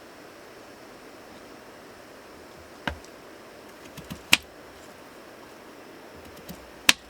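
A handful of sharp, separate clicks over a steady hiss: one about three seconds in, a quick cluster around four seconds, and two more near the end, the loudest in the middle and at the very end.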